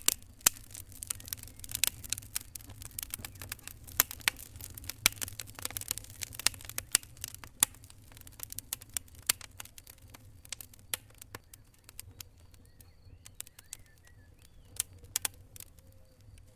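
Wood fire burning in a fireplace: irregular sharp crackles and pops over a low steady rumble of the flames. The pops come thicker in the first half and thin out later.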